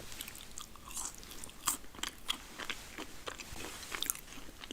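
Close-miked eating sounds: a person chewing crunchy food, burger and fries, with many short, irregular crackly crunches.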